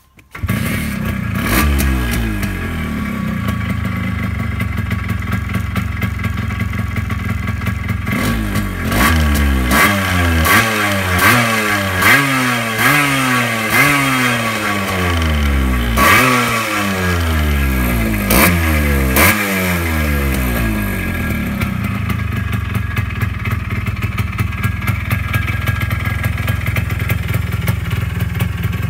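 TVS-Suzuki Shogun's single-cylinder two-stroke engine comes in abruptly just after the start and settles to a fast idle. From about a third of the way in, it is blipped through about ten quick revs, each rising and falling in pitch, before settling back to idle for the last part.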